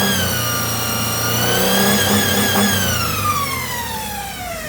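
2002 Chrysler Sebring engine with 112,000 miles on a run test, revved up and held at high revs, then the revs fall steadily back toward idle over the last two seconds or so.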